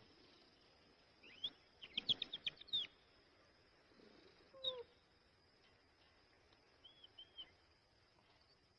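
Faint birds chirping: a quick run of short chirps between one and three seconds in, a single sliding call about halfway, and two short chirps near the end.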